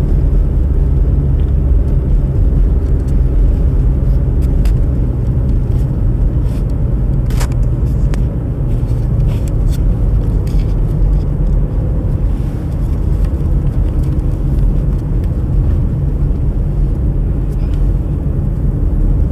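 A car driving, with a steady low rumble of engine and road noise and a faint click about seven seconds in.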